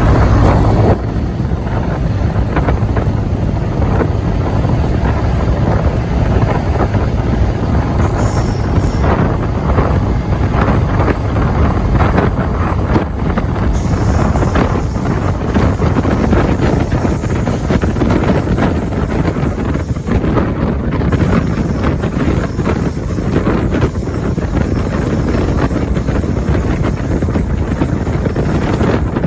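Heavy diesel locomotive engine running, a steady low rumble with wind buffeting the microphone; the level drops suddenly about a second in.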